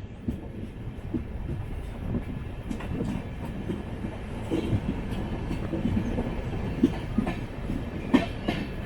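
Express passenger train running along the track: a steady rumble of wheels on rail with irregular clicks and knocks over the rail joints.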